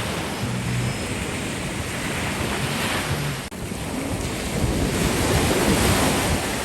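Ocean surf washing in on a beach, a steady rushing that builds a little near the end, with wind buffeting the microphone.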